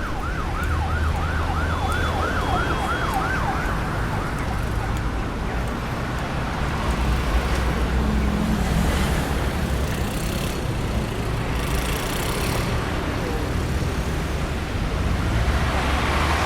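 Road traffic with a steady rumble of engines and tyres. An emergency vehicle's siren in fast yelp mode rises and falls about three times a second and fades away after about four seconds. Later a few vehicles swell past closer.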